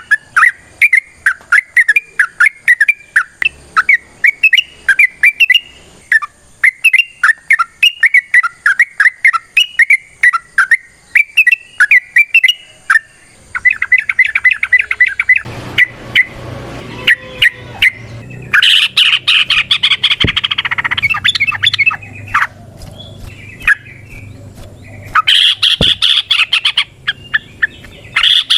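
Yellow-vented bulbul singing a long run of quick, bubbling chirps. About halfway in the song turns denser, and there are louder, harsher chattering spells near the end.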